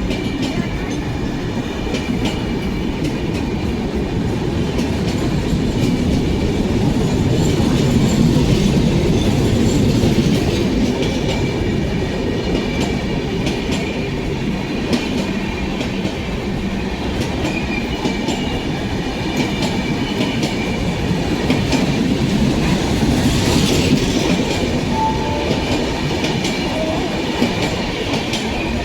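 Passenger express train's coaches rolling past, a steady rumble with the wheels clicking over rail joints and a faint high squeal from the wheels.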